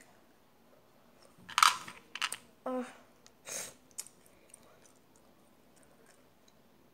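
A child eating a small sweet: a few short mouth-noise bursts and clicks of biting and chewing, the loudest about a second and a half in, with a brief voiced sound near the middle, then quiet chewing.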